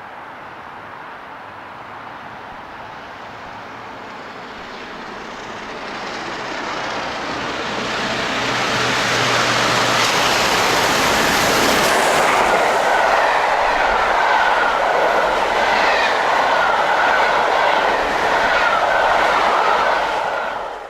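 A train approaching and running past at speed, its sound building over several seconds to a loud, steady clatter of wheels on the rails that lasts until the end.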